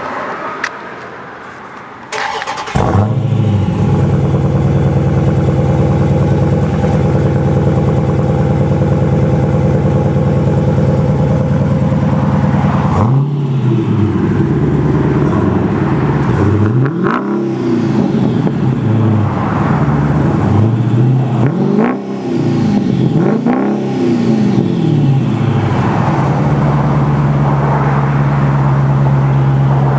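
Exhaust of a 2015 Dodge Challenger R/T Scat Pack's 392 (6.4-litre) HEMI V8, heard from under the car while it stands still. The engine comes in abruptly a little under three seconds in, as if starting, and runs at a steady idle. About halfway through, the throttle is blipped over and over, the revs rising and falling each time, before it settles back to idle near the end.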